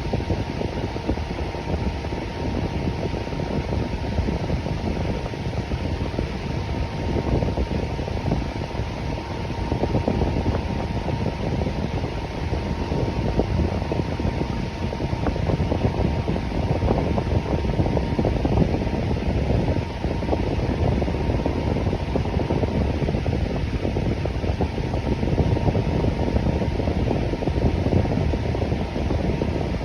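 Electric fan running steadily: an even whoosh of moving air, strongest in the low range, with a faint steady hum.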